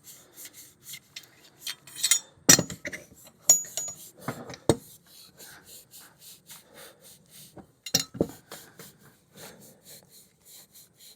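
Abrasive scuff pad scrubbed back and forth on a stainless steel motorcycle muffler in quick even strokes, about three a second, with a few sharp knocks against the metal.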